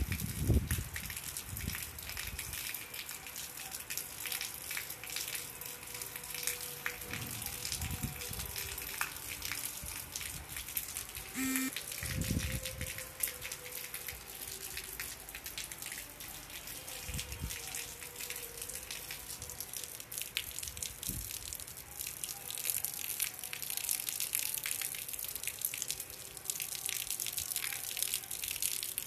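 Steady rain falling on a flat concrete rooftop: a continuous hiss dense with the small ticks of drops striking wet concrete. A few low thumps sound right at the start, and a short pitched tone sounds once near the middle.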